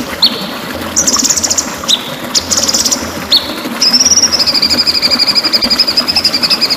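White-rumped shama (murai batu) singing: short, fast, buzzy trills and sharp, falling chip notes, then from about four seconds in one long rapid trill.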